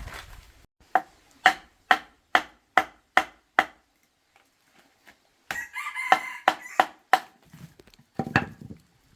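A run of about seven sharp, evenly spaced strikes, roughly two and a half a second, then a rooster crowing with a few more strikes over it.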